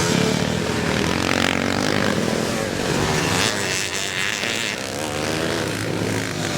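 Several classic motocross motorcycle engines revving, their pitch rising and falling as the throttles open and close.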